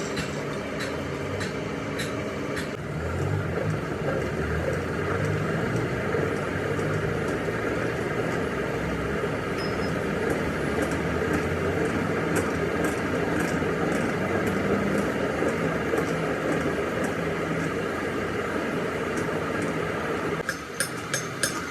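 A workshop machine tool running steadily, a constant mechanical hum with a few steady tones that gets a little louder about three seconds in. A series of sharp clicks comes near the end.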